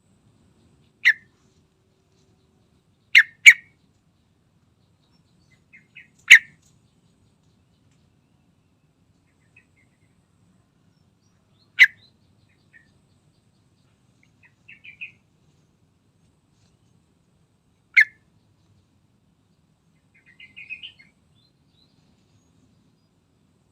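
Sooty-headed bulbul (trucukan) giving short, loud call notes, singly and once as a quick pair, several seconds apart. Softer twittering comes in twice, about halfway through and again later.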